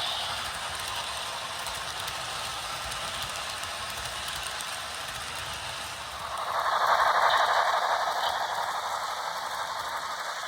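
HO scale model train running: a Broadway Limited K4s steam locomotive and heavyweight passenger cars, with a steady mechanical clatter of wheels, rail joints and gear drive. It grows louder about six and a half seconds in.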